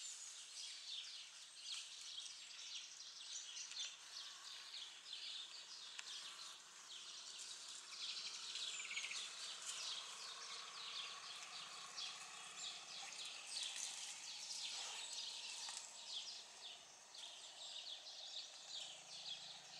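Background birdsong: many quick, high-pitched chirps and calls, with a few sliding notes, over a light outdoor hiss.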